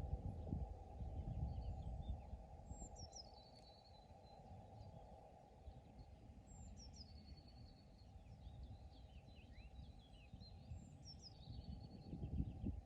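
A songbird sings the same short phrase three times, about four seconds apart, each sliding down in pitch and ending in a brief trill. Under it runs a low rumble that swells at the start and again near the end.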